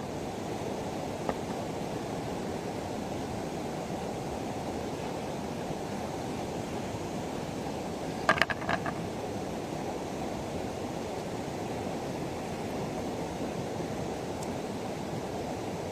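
River water flowing steadily, with a short cluster of sharp knocks about eight seconds in.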